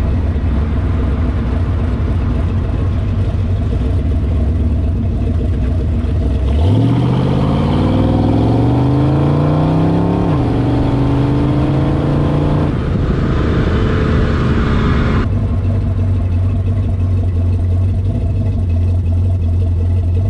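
1979 Ford Mustang V8 rumbling at low revs, then accelerating with rising pitch about six seconds in, a sudden drop in pitch at a gear change, and a short spell at steady higher revs before it settles back to a low rumble.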